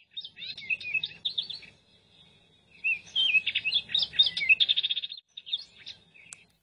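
A songbird singing: two runs of quick chirps and trills, a short one at the start and a longer one from about three seconds in, over a faint low hum.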